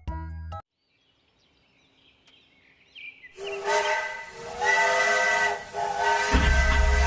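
Background music cuts off, then after a few seconds of near silence a loud, held whistle of several steady tones over a hiss starts up, with a low rumble joining near the end.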